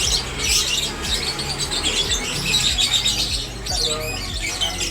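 Many caged birds chirping and squawking at once, a dense overlapping chatter of high chirps and trills.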